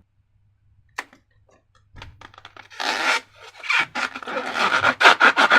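Slime and rubber balloons being handled by hand: a single click about a second in, then crackling, rubbing sounds that come thicker and louder toward the end.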